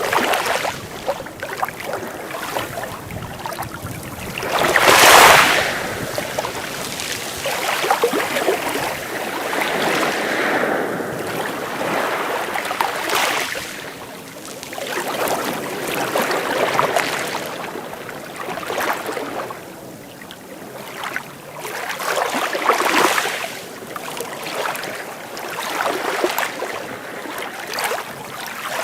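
Sea waves breaking and washing ashore, surging and falling back every few seconds, with the largest wave breaking about five seconds in.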